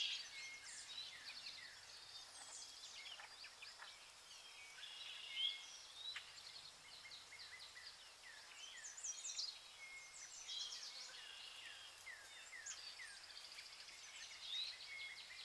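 Rainforest birds calling all together: many overlapping chirps, trills and short downward-sweeping whistles.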